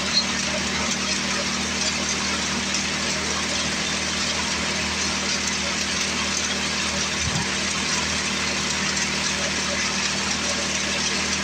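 Tecumseh small engine of an old Craftsman 24-inch snowblower running steadily at a constant speed, brought back to running after sitting for years.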